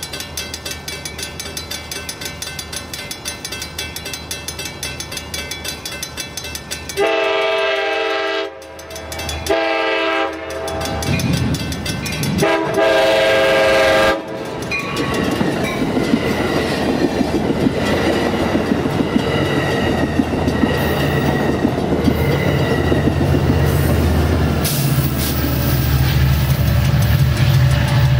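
A grade-crossing bell rings steadily. A passenger train then sounds its horn three times, long, short, long, and passes close by with its wheels clattering over the rails. A diesel engine's drone grows louder near the end.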